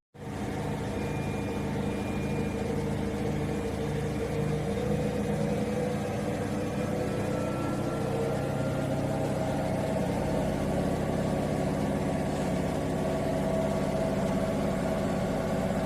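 Gorenje WPAM74SA1T washing machine running, a steady mechanical hum with a faint motor whine.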